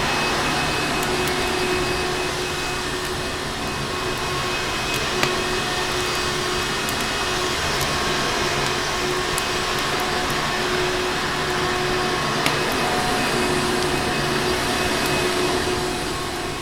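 Vacuum cleaner motor running steadily with a constant whooshing hum, with a couple of sharp fireplace crackles over it. The sound begins to fade near the end.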